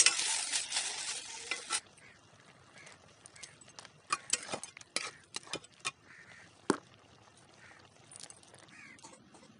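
Sliced okra sizzling in a hot metal wok for the first couple of seconds, then scattered clicks and scrapes of a spatula stirring against the pan, with one louder knock about seven seconds in.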